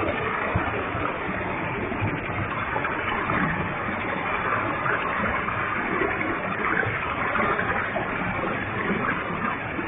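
A full-flowing waterfall: water falling and splashing in a steady, even rush.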